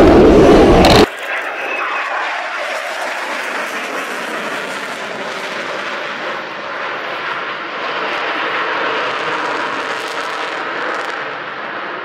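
After about a second of loud music that cuts off abruptly, a Swiss Air Force F/A-18 Hornet's twin turbofan jet engines give a steady rushing noise as the fighter flies its display, swelling slightly toward the end.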